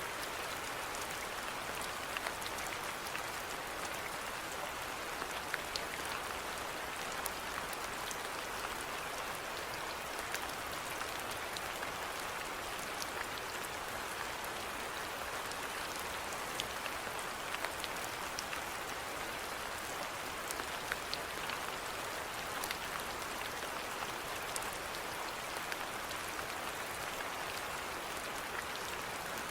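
Steady rainfall: a continuous hiss of rain with scattered individual drops pattering on a surface.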